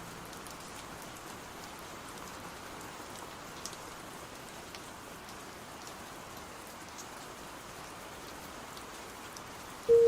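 Steady rain falling, an even hiss with faint scattered drop ticks. Right at the end a sustained low musical tone begins.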